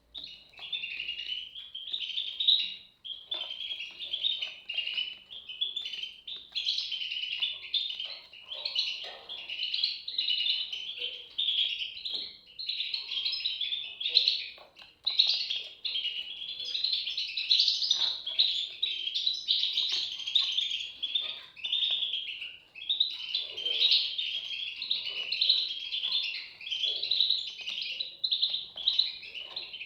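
European goldfinch chicks chirping in a dense, nearly continuous chorus of high calls.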